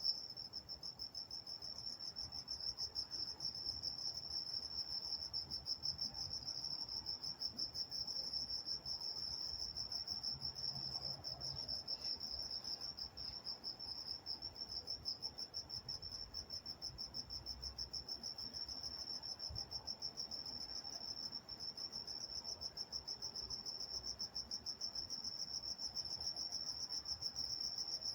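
Crickets chirping at night in a steady, rapidly pulsed chorus, high-pitched and unbroken, over a faint low background hum.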